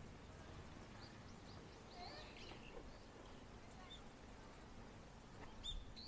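Faint outdoor ambience: a low steady rumble with a few scattered short chirps from small songbirds, the clearest near the end.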